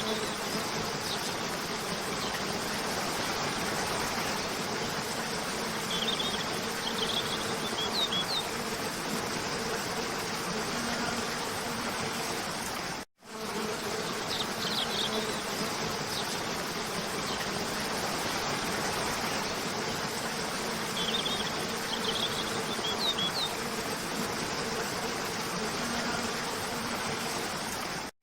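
Steady rush of a cascading waterfall with a steady low hum under it and short high bird chirps in small clusters several times. The sound cuts out for an instant about halfway through, where the looped track restarts.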